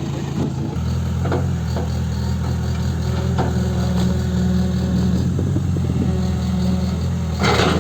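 Tata Hitachi Zaxis 120 excavator's diesel engine running steadily, going up slightly in pitch and load about a second in as the hydraulics are worked. A few short knocks sound over it, the loudest near the end.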